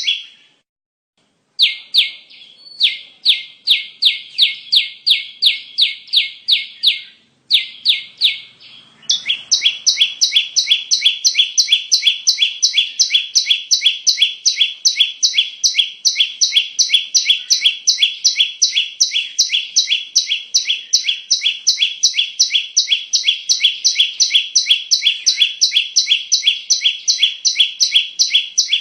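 Recorded bar-winged prinia (ciblek) call played as a lure: a fast, unbroken series of sharp, high chirps, about four a second. It drops out briefly just after the start and pauses again about a third of the way in, then runs on evenly.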